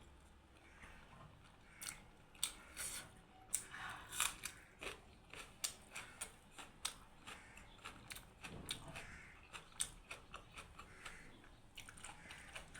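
Biting into and chewing a large buff momo close to the microphone: irregular sharp mouth clicks and smacks, starting about two seconds in.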